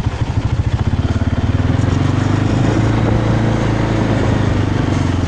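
Off-road bike's engine idling, then speeding up about a second in and holding a steady, higher pitch as the bike is moved back.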